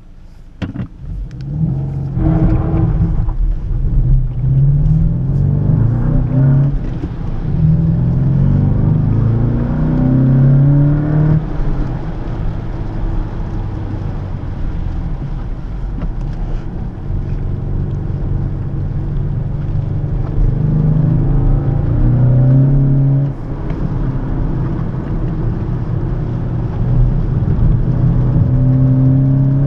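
Skoda Octavia RS's 2.0-litre turbocharged four-cylinder petrol engine pulling hard through the gears. The revs climb and fall back again and again at each shift, with a steadier cruising stretch in the middle. A few clicks come just before the engine sound swells about a second in.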